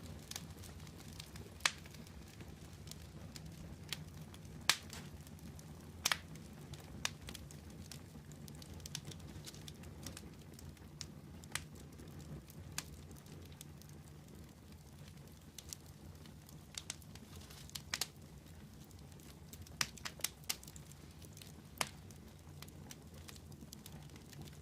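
Wood campfire burning, crackling with irregular sharp pops and snaps over a steady low rumble of the flames.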